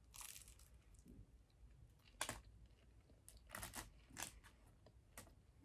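Faint chewing of a bitten-off piece of flaky chocolate twist pastry, with a handful of soft, short crunches spread through the chew.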